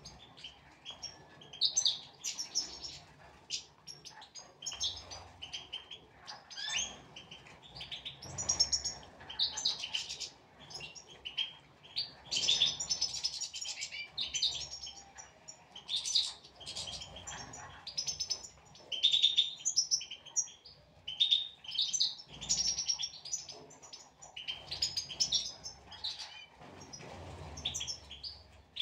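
European goldfinches chirping and twittering, a dense run of quick high chirps and trills.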